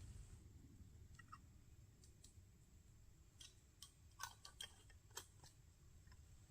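Near silence over a faint low rumble, broken by a scattering of soft, irregular clicks and ticks, most of them in the second half.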